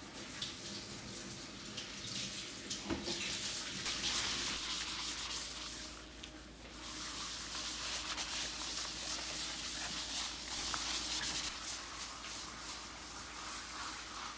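Scrubbing, a brush or scourer rubbed back and forth over a kitchen surface, pausing briefly about six seconds in.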